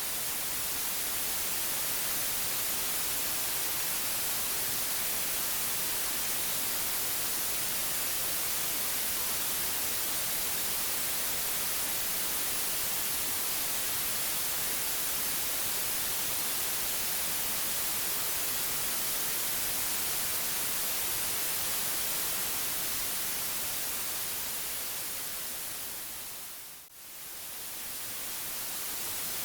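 Steady white noise hiss, strongest in the highs, that fades smoothly down to a brief dip and back up near the end.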